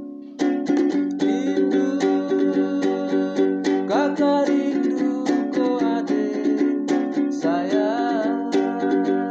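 Strummed acoustic string instrument playing chords in a steady rhythm, with short wavering melody notes about four seconds in and again near the end.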